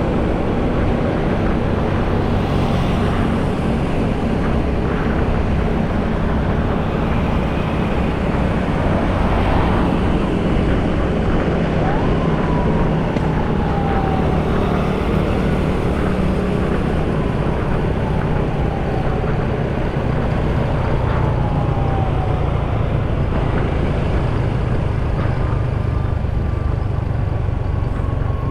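Motorcycle riding at road speed: a steady low rumble of wind on the microphone, mixed with engine and traffic noise. Midway, a few falling whines drop in pitch over two or three seconds each.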